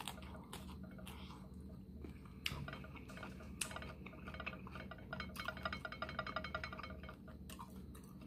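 Close-up chewing of a crunchy hard-shell taco, with many short crisp crunches one after another.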